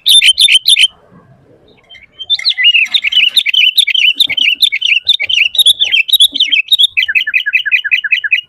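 Sooty-headed bulbul (kutilang) singing loudly. A fast run of repeated chirps breaks off about a second in. After a short pause comes a busy warbling song, which ends in a quick string of falling notes and stops abruptly at the end.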